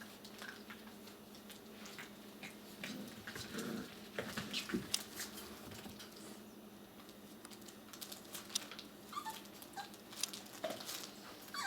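Six-week-old puppies moving about, with scattered clicks and taps of paws and nails, and a few brief high whimpers near the end.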